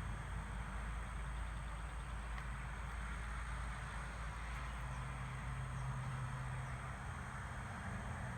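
Steady outdoor background noise: a low rumble with a faint hiss above it, with no clear single event.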